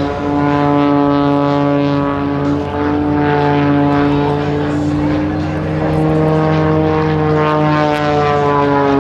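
Extra 300 aerobatic plane's Lycoming 540 six-cylinder engine and propeller running at high power during aerobatics. The pitch holds, steps up a little a couple of times, then slowly falls over the last few seconds.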